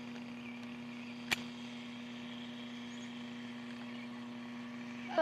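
Steady electrical hum with a single sharp crack about a second in.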